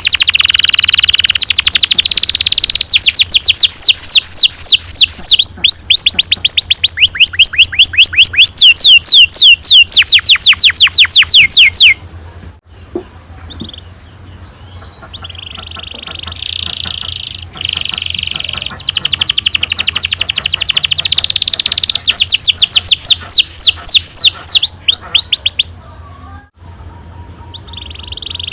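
Domestic canary singing long rolling trills of rapid repeated notes, in two loud runs about ten seconds each, with a quieter stretch of softer calls in between and a drop near the end.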